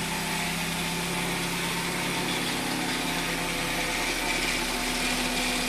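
Hyundai's freshly swapped engine idling steadily just after its first start, having fired right up.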